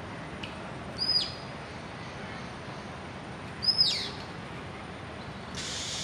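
Two short, high bird calls about two and a half seconds apart, each a whistle that sweeps sharply downward, over a steady outdoor hiss. A brief rush of hiss comes in near the end.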